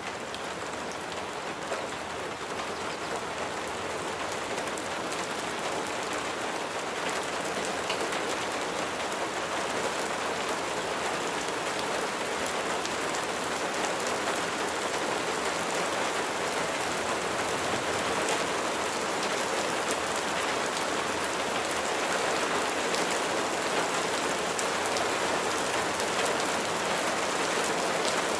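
Steady rain falling on a surface, a dense even patter with scattered individual drop ticks, growing gradually louder.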